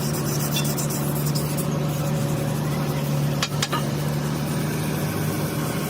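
A machine running with a steady low drone, with two sharp clicks a little past halfway.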